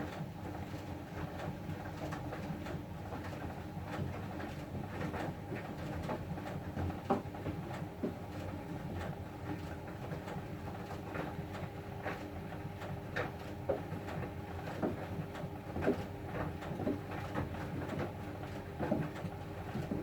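Siemens WM14VG93 front-loading washing machine running a wash with bedding: a steady motor and drum hum with irregular light knocks and clicks as the drum turns.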